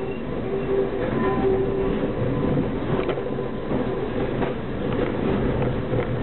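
Diesel multiple unit running along the line, heard from its rear cab: a steady engine and transmission hum over the rumble of the wheels, with a few clicks from the wheels on the track.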